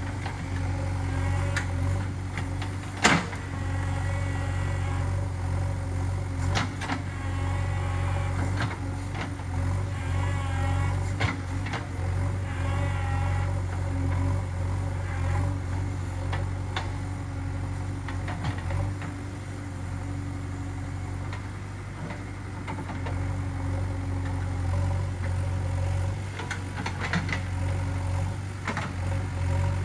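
Diesel engine of a JCB 3DX backhoe loader running steadily, with a sharp knock about three seconds in.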